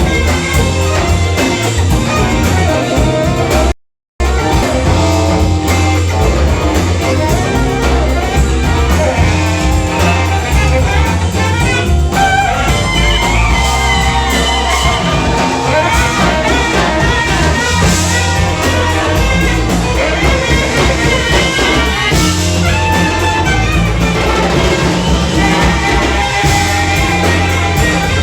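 Live band playing a loud instrumental section of a funk song, with horns over guitar, bass and drums. The sound cuts out completely for a moment about four seconds in.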